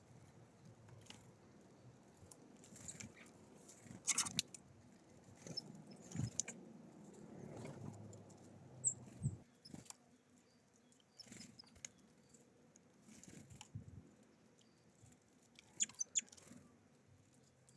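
Small birds feeding at a bird feeder: scattered faint taps and pecks of beaks on seed and feeder, a few at a time, with one brief high chirp about nine seconds in.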